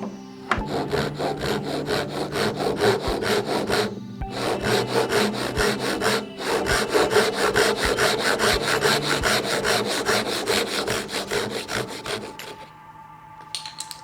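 Hand saw cutting through wood in quick, even back-and-forth strokes. It pauses briefly twice and stops about a second and a half before the end. Soft background music plays under it.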